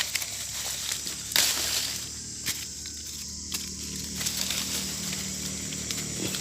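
Leaves and branches rustling, with a few light clicks and knocks, as mangoes are handled; a low steady hum runs underneath from about two seconds in until near the end.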